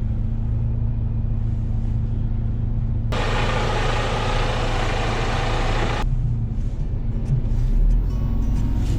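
Concrete pump truck's diesel engine running steadily while climbing with both drive axles engaged. About three seconds in, a loud hiss starts suddenly and cuts off about three seconds later.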